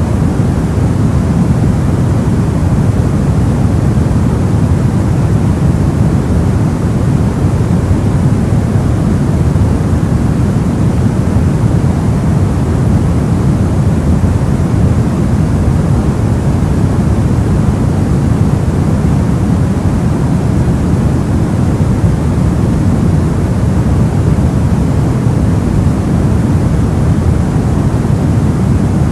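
Soft white noise for sleep: a steady, even hiss, deep and weighted toward the low end, with no changes or separate sounds.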